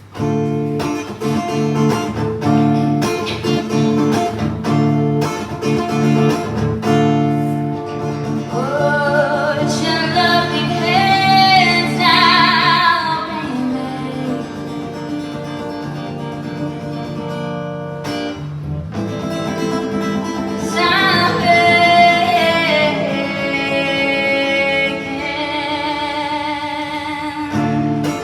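Live acoustic guitar strumming with a woman singing. The voice comes in about eight seconds in and again about twenty seconds in.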